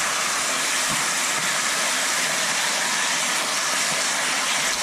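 Pieces of rabbit frying in hot oil in a stainless steel frying pan: a steady sizzling hiss.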